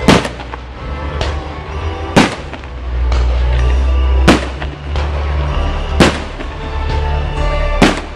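Aerial fireworks shells bursting with sharp bangs about every two seconds, five in all, over music and a steady low rumble.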